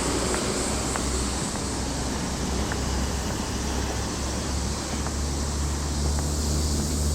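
Outdoor city ambience: a steady low rumble of wind on the microphone mixed with distant traffic noise.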